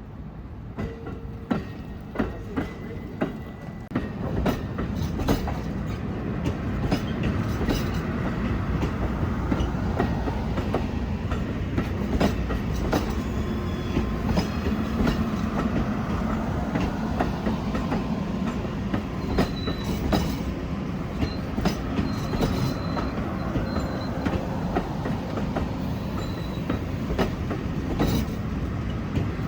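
Amtrak passenger train backing slowly past, its car wheels clicking over rail joints over a steady rolling rumble that grows louder about four seconds in. A faint high wheel squeal comes and goes in the second half.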